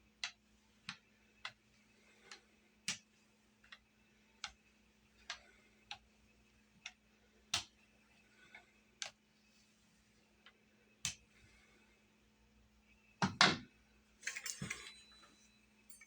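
Sharp, irregular taps of a pizza cutter against a cutting board as rolled dumpling dough is cut into pieces, about one or two a second. A louder knock comes near the end, followed by a quick cluster of clicks.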